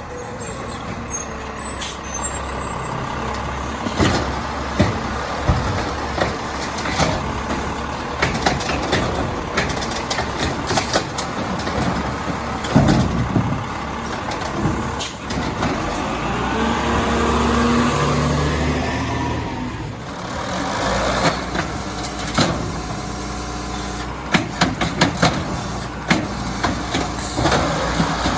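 Crane Carrier garbage truck with an Amrep automated side loader at work: its engine runs and revs up and back down around the middle, with many sharp clanks and bangs of metal throughout, more of them near the end.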